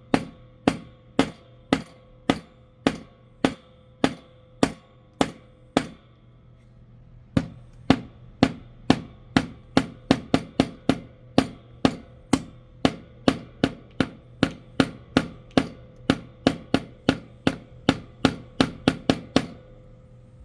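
Hammer striking nails into the soft wood of a small birdhouse kit: steady blows about two a second, a brief pause about six seconds in, then quicker taps at roughly three a second that stop shortly before the end.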